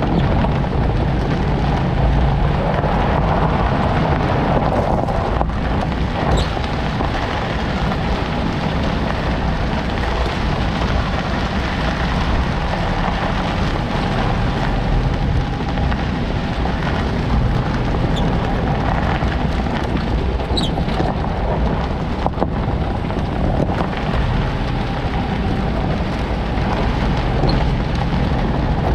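Toyota Land Cruiser Prado 90 on the move: steady road and running noise, with a few brief faint high squeaks from the rear suspension.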